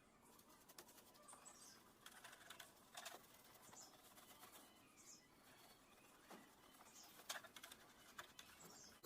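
Near silence, broken by faint scattered clicks and taps and a few brief, faint high chirps.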